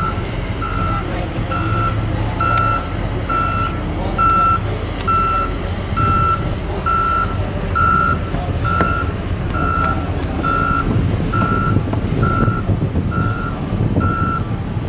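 A skid steer loader's backup alarm beeps steadily, a little under once a second, as the machine reverses. The loader's engine runs underneath.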